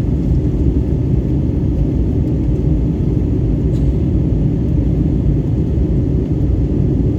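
Airbus A320neo during takeoff: a steady, loud, low rumble of the jet engines and airflow.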